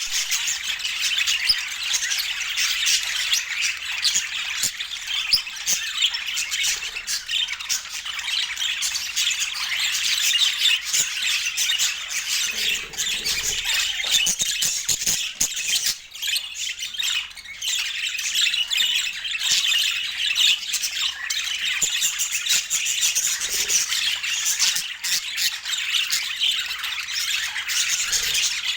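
Budgerigars chattering without a break, a continuous stream of chirps, squeaks and squawks.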